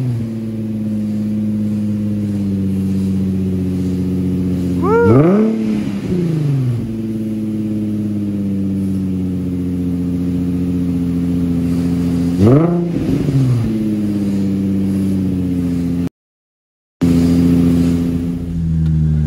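Nissan 350Z's 3.5-litre V6 idling steadily through a newly fitted Tomei aftermarket exhaust, blipped twice, about five and twelve seconds in, each rev rising and falling back to idle. The sound cuts out for about a second near the end.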